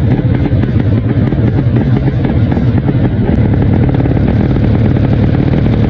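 Drag-racing motorcycle engine running steadily, a fast, even stream of firing pulses with no big rise or fall in revs.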